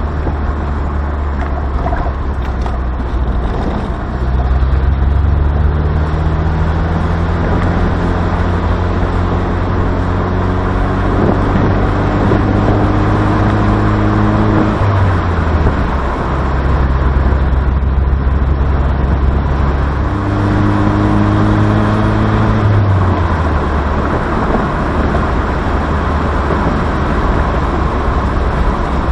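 Pontiac Solstice roadster's engine pulling under acceleration, heard from inside the cabin: its pitch climbs slowly for several seconds and drops at a gear change, then climbs again and drops at a second shift. Road and wind noise run underneath.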